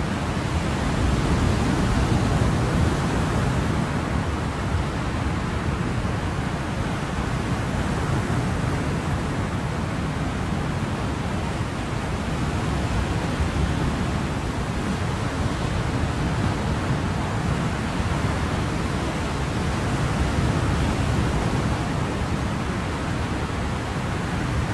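Ocean surf: a steady wash of waves breaking, with only slight, slow swells in loudness.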